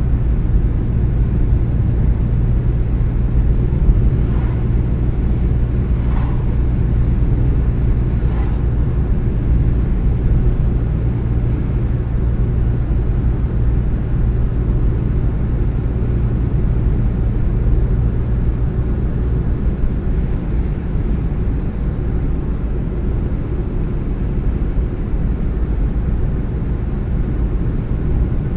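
A car driving steadily, its road and engine noise a constant low rumble, with a few faint short clicks in the first third.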